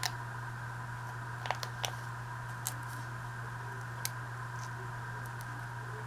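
A handful of short, sharp clicks and snips from paper and craft tools being handled, most of them in the first half, over a steady background hum.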